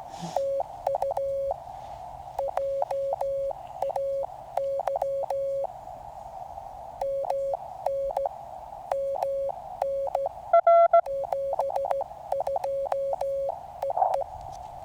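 Morse code (CW) from a QCX mini QRP transceiver: a single tone keyed on and off in dots and dashes over steady receiver hiss. About ten and a half seconds in, a brief, louder, higher tone cuts in.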